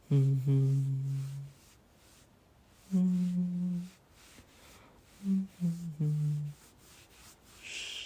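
A man humming a slow, lulling tune in a low voice, in short phrases of held notes: two notes at first, one about three seconds in, and a few shorter ones around five to six seconds in. Gentle pauses fall between the phrases.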